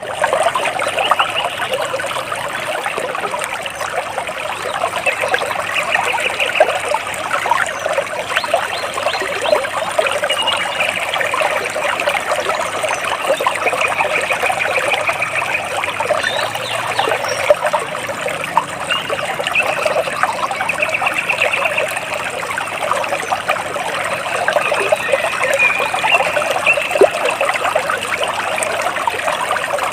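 Water trickling and splashing steadily. Short, rapid bird trills come in over it every few seconds.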